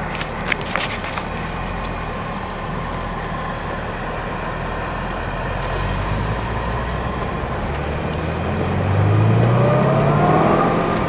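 Cabin sound of a Corvette ZR1, its supercharged V8 running at a steady cruise over road noise, with a few light clicks near the start. About eight seconds in the engine note rises in pitch and grows louder as the car accelerates.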